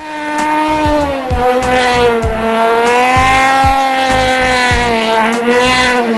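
Mercedes-Benz CLK 63 AMG Black Series 6.2-litre V8 held at high revs, its pitch sagging slightly and rising again, with a regular low thudding beneath.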